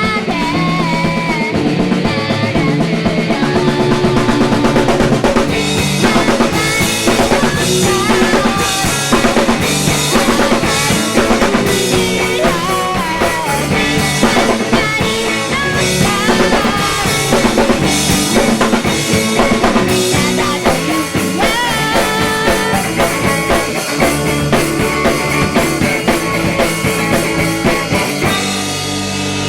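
Three-piece indie-pop band playing live, with a drum kit driving under guitar and bass. The drums hit harder from about six seconds in.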